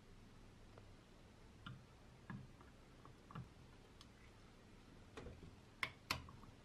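Near silence with a few faint, scattered taps and clicks, and two sharper clicks close together near the end.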